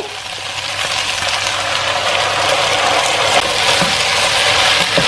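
Stir-fry of chicken, chillies and capsicum sizzling steadily in a hot pan as the sauce goes in, growing a little louder, with a few light knocks of the spatula.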